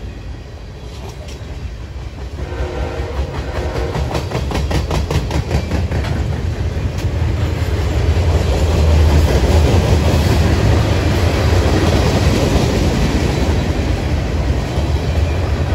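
Freight train cars rolling past at track speed: a steady low rumble of wheels on rail with rapid clickety-clack over the rail joints, growing louder over the first several seconds.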